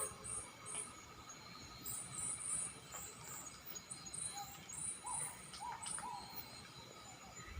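Night insects chirping: short, high chirps that come in quick clusters, with a few lower, slightly rising chirps from another animal about two-thirds of the way through.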